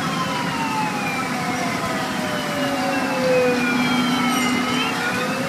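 A wailing siren with several tones sliding slowly down in pitch for about four seconds, then rising again near the end, over steady background noise.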